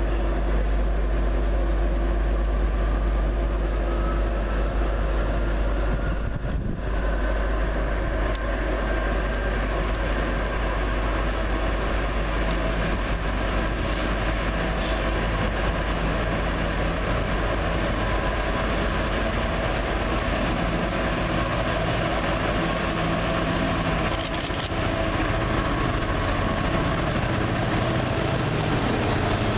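Train at a station platform, running with a steady deep rumble and engine tones; a faint rising whine comes in during the first few seconds.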